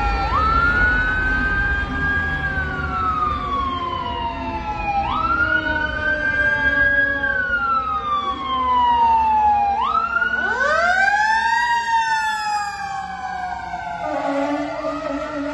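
Fire engine siren on a slow wail, each cycle rising quickly then falling slowly, about every five seconds. About ten seconds in, a second, deeper siren winds up and back down, and near the end a steady low blare joins in.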